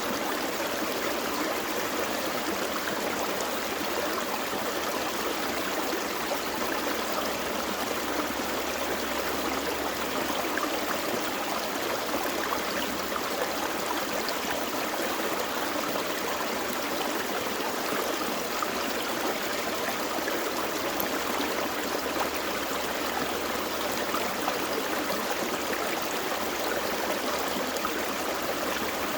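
A gentle forest stream flowing and babbling over rocks, a steady, even rush of water.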